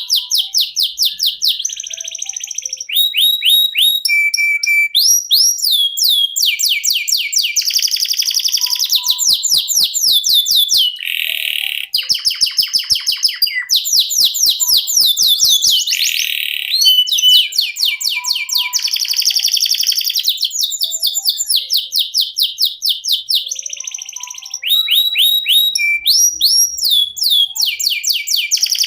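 Canary singing a long, unbroken rolling song of rapid trills. Each phrase repeats one quick rising or falling note many times before switching to a new one every second or two.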